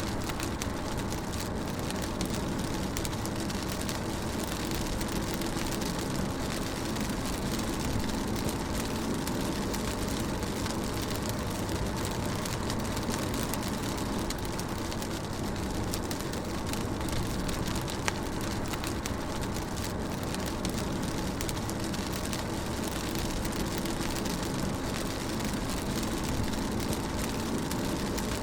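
Rain pattering on a car while it drives, over the steady low rumble of the engine and tyres on a wet road, heard from inside the car.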